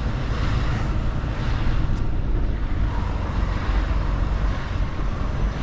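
Mercedes-Benz Actros truck's diesel engine running steadily while the truck is driven, a low, even rumble with road noise over it.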